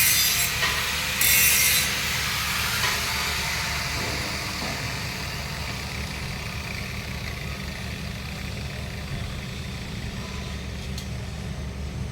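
Harsh scraping strokes worked over the steel pipe: one at the start and another about a second in, each under a second long. A steady low hum follows.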